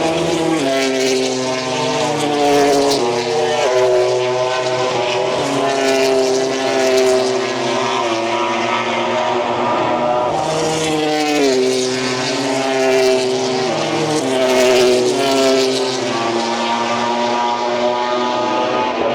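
MotoGP racing motorcycle engines running on track, the engine note holding a steady pitch and then stepping down or up several times as the riders change gear.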